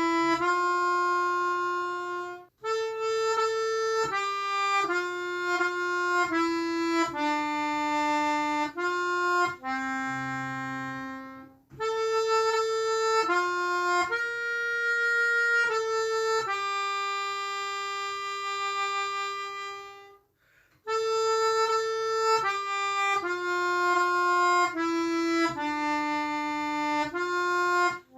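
Harmonica playing a slow melody of held notes, in phrases broken by brief pauses.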